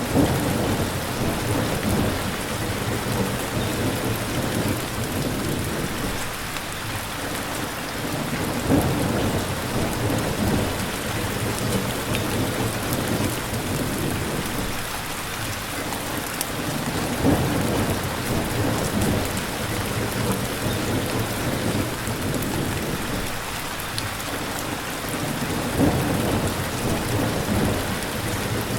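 Steady heavy rain hissing, with low rolls of thunder swelling up about every eight or nine seconds.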